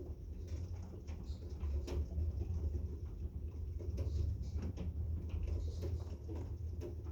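Heavy rain and hail falling, with scattered sharp ticks of drops or hailstones striking close by, over a steady low rumble.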